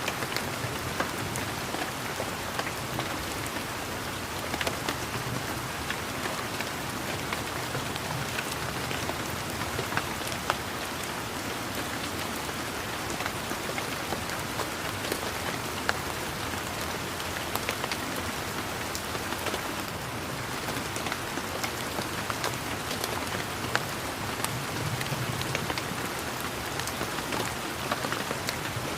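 Steady rain pattering on garden leaves, with many sharp individual drop ticks standing out over an even hiss.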